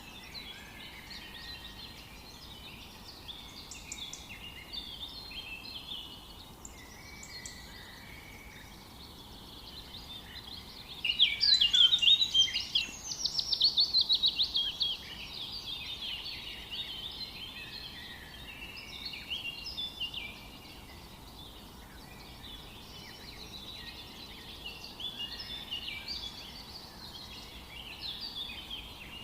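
Several songbirds singing and calling together, with many short chirps and phrases overlapping. About eleven seconds in, one bird gives a louder song of fast repeated notes that falls in pitch and lasts about four seconds.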